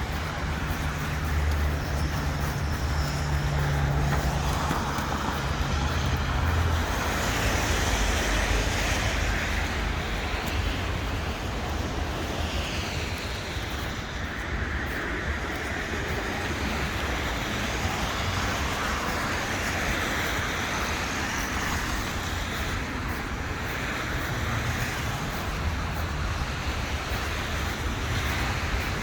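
City street traffic: cars driving past steadily, with the low hum of a nearby engine in the first several seconds and again near the end.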